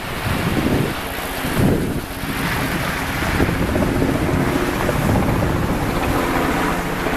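Loud wind buffeting the microphone, a low rumble that swells and drops with the gusts.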